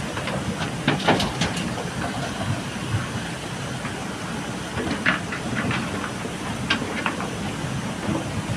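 JCB backhoe loader's diesel engine running steadily under load, with irregular sharp clatters and knocks of gravel and the steel bucket, the loudest about a second in and again around five to seven seconds.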